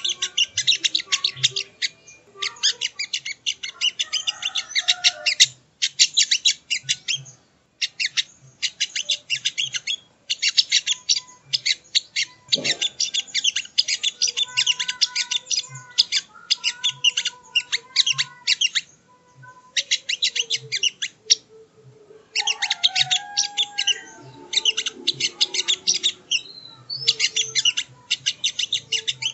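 Sogok ontong (songon) birdsong from a lure recording: rapid runs of sharp, high, very short chirps packed into bursts of a few seconds, broken by short pauses, with some softer lower chirps in between.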